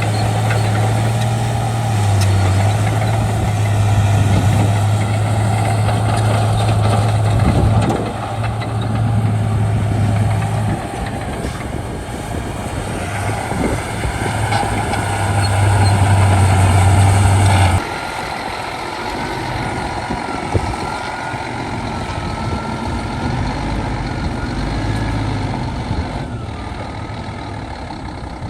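Bulldozer's diesel engine running steadily with a strong low hum. About eighteen seconds in, the sound drops abruptly to a quieter engine note with a faint wavering whine.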